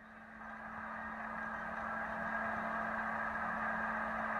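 Steady noise of a car driving, recorded by a dashcam, with a constant low hum underneath. It grows slowly louder throughout.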